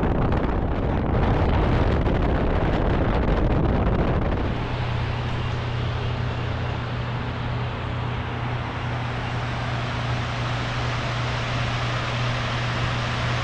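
Vehicle driving, heard from inside the cabin as a steady drone of road and engine noise with a constant low hum. For the first few seconds it is louder and rougher with wind buffeting, which drops away about four and a half seconds in.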